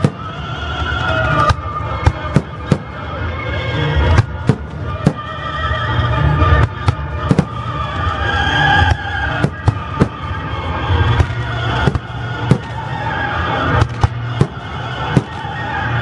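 Fireworks shells bursting overhead, with many sharp bangs at irregular intervals, roughly one a second, over music playing along with the display.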